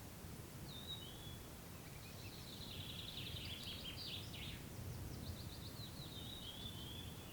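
A songbird singing in short, quick trilled phrases: a brief call about a second in, a longer run of rapid notes from about two to four and a half seconds, and another phrase near the end. A steady low outdoor rumble lies underneath.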